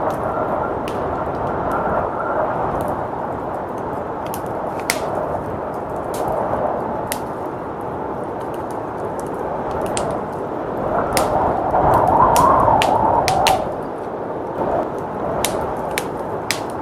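Wood fire crackling, with sharp pops scattered irregularly, over a steady howl of blizzard wind that swells louder about two-thirds of the way through.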